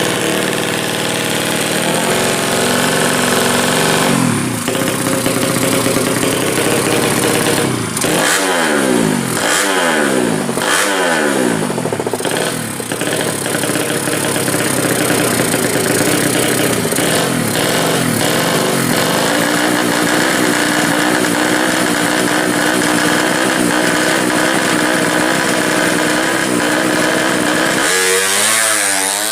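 Drag-race-tuned Yamaha Jupiter motorcycle engine built with high compression, running loud. It is blipped up and down several times about a third of the way in, then held at steady high revs.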